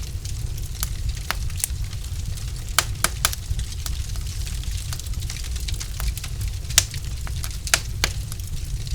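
Wood fire burning in a fireplace: irregular sharp crackles and pops over a steady low rumble, with a few louder pops in the middle and near the end.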